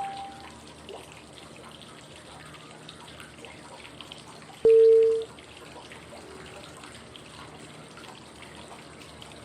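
Steady flowing-water white noise with short single-pitch cue tones about five seconds apart, one for each inhale, hold and exhale step of 5-5-5 breathing. A higher tone fades out at the start, and a lower, louder tone sounds about halfway through.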